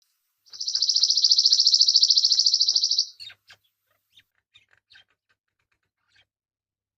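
A songbird singing one fast, high-pitched trill that lasts about two and a half seconds and stops abruptly, followed by a few faint short chirps.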